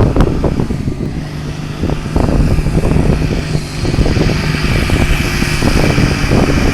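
A competition pulling tractor's engine running hard under full load as it drags the weight-transfer sled down the track, with sharp knocks through it. It eases off between about one and two seconds in, then picks back up and holds steady.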